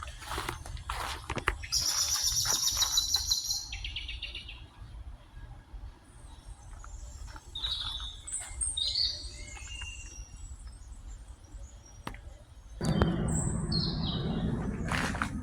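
Birds chirping and calling: a loud, harsh call about two seconds in, then scattered short high chirps. A low rumbling noise joins for a couple of seconds near the end.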